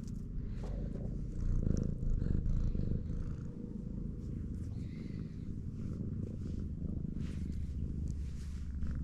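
A domestic cat purring steadily as a low, pulsing rumble, a little louder about one and a half to three seconds in.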